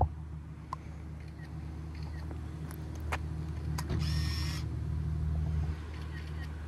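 Car engine and exhaust droning deep and steady, heard from inside the cabin while driving; it sounds bassy. A short hiss comes about four seconds in.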